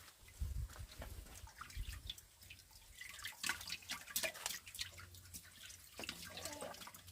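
Scattered drips and small clicks at an irregular pace, with a low rumble during the first two seconds.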